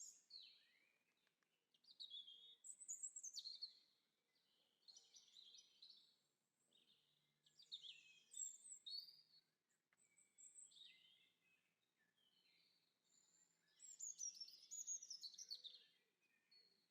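Faint songbird song: repeated phrases of quick, high chirps and warbling trills, broken by short pauses.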